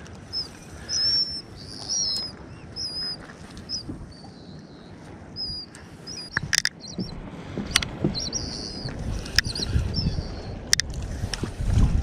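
Small birds chirping repeatedly in short, high calls, with a few sharp clicks from about halfway through and a low rumble building near the end.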